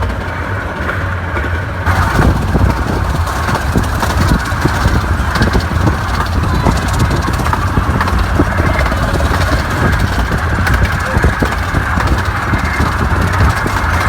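Miniature 15-inch gauge train running, a steady rumble with scattered small knocks. There is an abrupt change about two seconds in.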